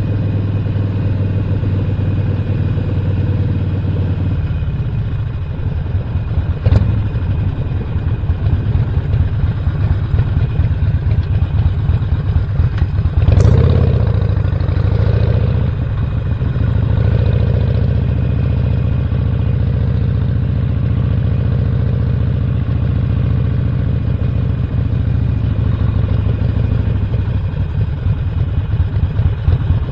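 Harley-Davidson Sportster Roadster's 1200 cc V-twin, with Stage 1 intake and exhaust, running on a ride. It holds steady at first, then turns to an uneven pulsing rumble from about four seconds in. There is a sharp knock about seven seconds in and a louder clatter around thirteen seconds.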